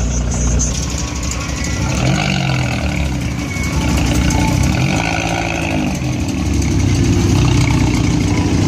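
Car engine with a sport exhaust running and revving, its pitch rising and falling a few times over a steady low rumble.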